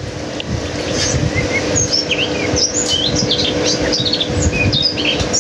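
Birds chirping: many short, quick chirps that slide up and down in pitch, in a busy chorus, over a steady low rumble of wind or handling noise on the phone's microphone.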